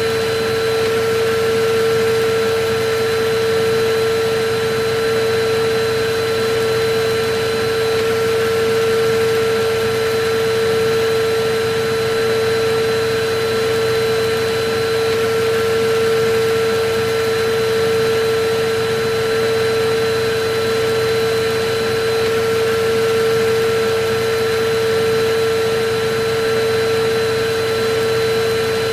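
Electric vacuum cleaner running steadily, its motor giving a constant whine over a hiss of air.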